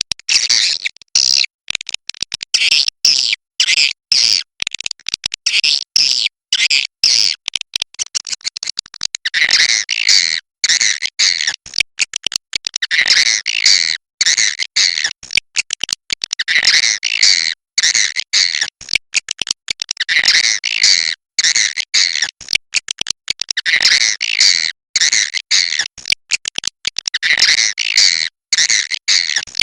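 Swiftlet calls: dense, high-pitched chattering and chirping, chopped by frequent sudden silent gaps. This is a swiftlet-house 'inap' (roosting) lure call, played to draw swiftlets in to roost.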